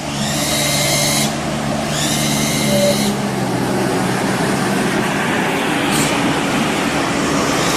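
A vehicle engine running steadily, with a high-pitched whine or squeal over it twice in the first three seconds.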